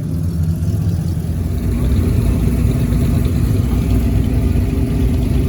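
A car engine idling close by with a deep, steady rumble that grows a little louder about a second in.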